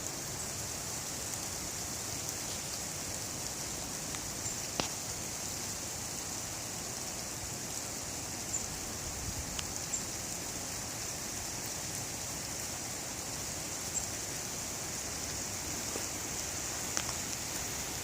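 Steady rushing noise of a strong windstorm, with a handful of scattered sharp ticks.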